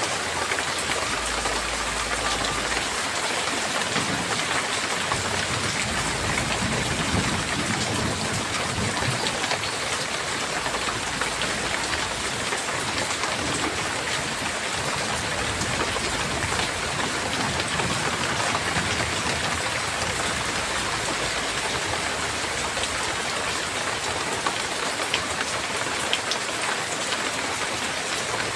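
Steady heavy rain falling on a hard surface, with individual drops ticking through the hiss.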